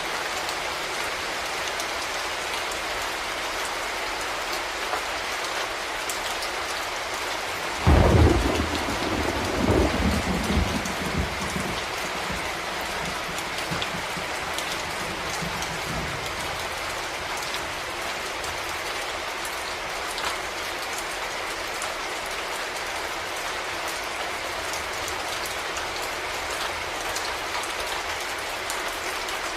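Steady rain falling, a constant hiss. About eight seconds in a sudden clap of thunder breaks loud and low, then rumbles away over the next few seconds.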